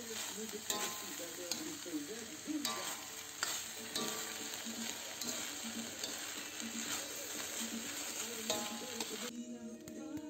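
Diced pork and cassava frying and sizzling in a stainless steel wok, stirred with a metal spatula that scrapes and clinks against the pan. The sizzling and stirring stop suddenly about nine seconds in, and music takes over.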